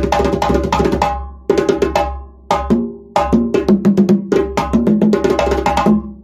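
Drums struck in quick flurries of sharp strokes with short breaks between them, free-form with no steady beat. From about halfway through, deeper ringing drum tones mix in with the sharp strokes.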